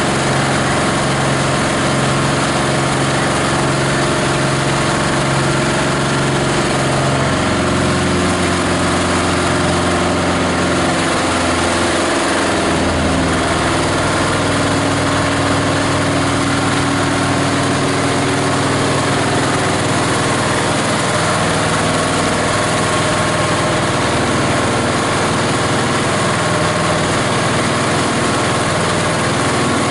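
The plastic grinder's 18 HP diesel engine running steadily under the machine's clatter, its note shifting about 7 seconds in and again around 13 seconds in.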